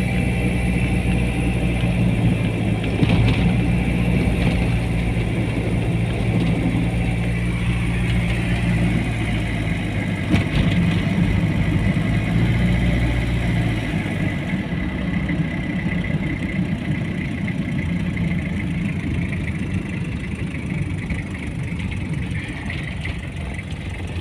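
Car engine running with a steady low hum while driving. About 14 seconds in the hum drops away, leaving a steadier road noise.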